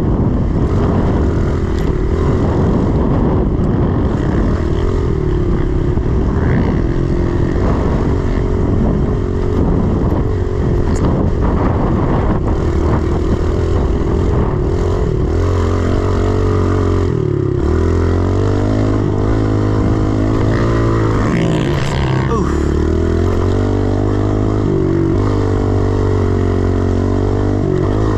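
A 110cc four-stroke single-cylinder pit bike engine being ridden hard, its note rising and falling over and over with throttle and gear changes, with wind noise on the microphone.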